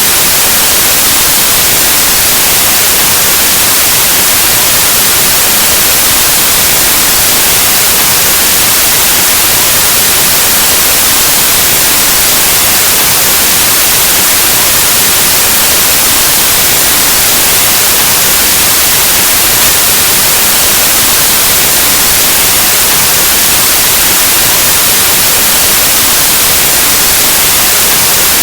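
Loud, steady white noise: an even hiss like analog TV or radio static, brighter in the highs, unchanging throughout.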